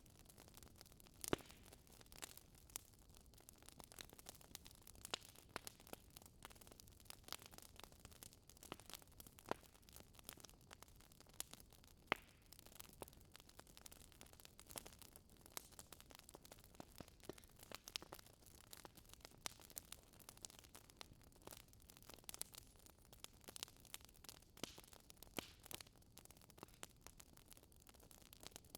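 Wood fire in a fireplace crackling, with irregular sharp pops and snaps over a faint steady hiss, a couple of pops louder than the rest.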